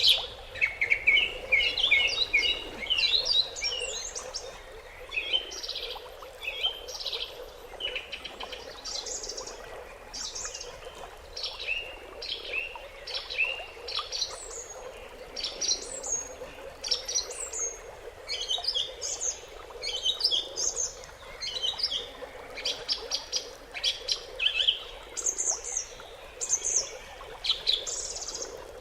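Wild songbirds chirping and singing: many short, high chirps and quick trills overlapping throughout, over a faint steady background hiss.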